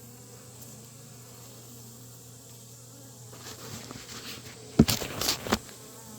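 Honey bees of an opened hive humming steadily around a frame. From about three seconds in there is rubbing and scraping handling noise close to the microphone, with a sharp knock near five seconds, the loudest sound, and a short burst of crackling after it.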